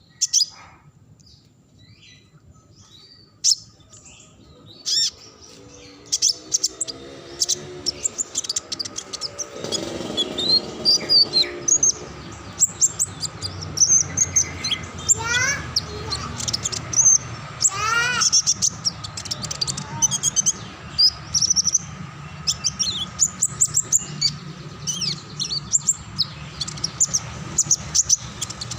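Small songbird singing continuously: a long run of rapid high trills, chirps and quick rising sweeps, sparse at first and busier from about six seconds in, over a steady faint hum.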